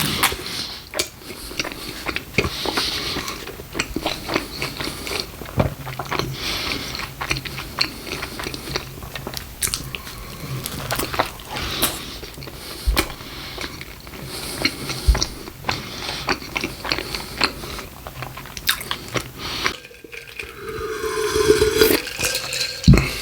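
Close-miked eating of a Taco Bell beef burrito: biting, chewing and wet mouth smacks, with many short crunchy clicks. Near the end the chewing stops and there is a brief rising squeak with some handling noise.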